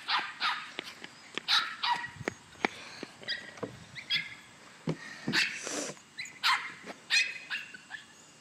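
A dog barking repeatedly in short, high-pitched barks and yips at an irregular pace.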